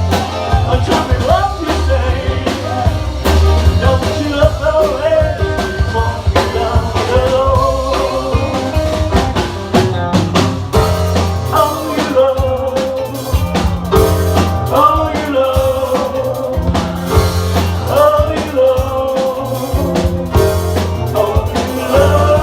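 Rock band playing live: drum kit with busy cymbals over a steady bass line, and a melodic line that slides and bends in pitch above them.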